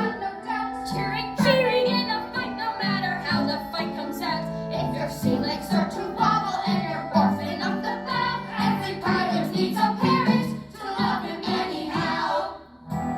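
A song with singers, possibly children or a mixed group, over instrumental accompaniment with a steady bass line. It breaks off briefly near the end, then starts again.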